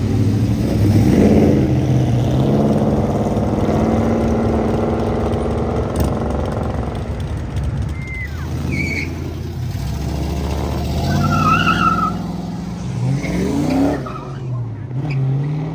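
Cars' engines accelerating away: an engine revs up about a second in and holds steady, and a few seconds before the end another engine climbs in pitch as it pulls away.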